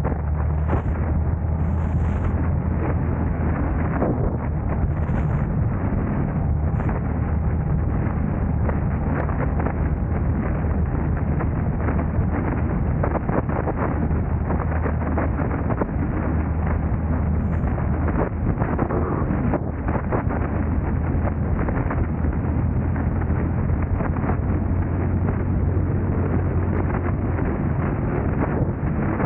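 A car driving through city traffic: a steady low rumble of engine and road noise, with wind buffeting the microphone and many small knocks.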